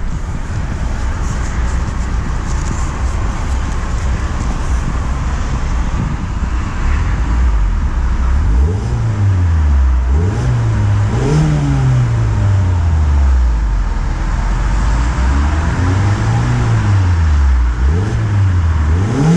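2020 Mazda MX-5 Miata's Skyactiv four-cylinder engine idling, then revved four times from about halfway in, each rev rising and falling back.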